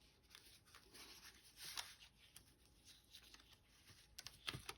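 Faint rustling and light scuffs of a ribbon and cardstock handled while a bow is tied, with a slightly louder scuff near the end.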